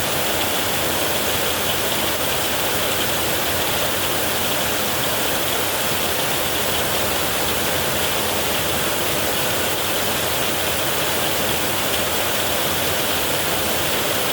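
Heavy rain falling steadily: an even, unbroken hiss with no thunderclaps.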